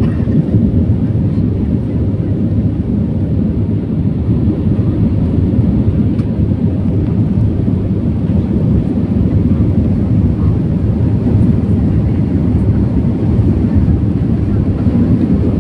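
Jet airliner heard from inside the passenger cabin during takeoff and climb: a steady, loud, low rumble of the engines at takeoff thrust and the air rushing past.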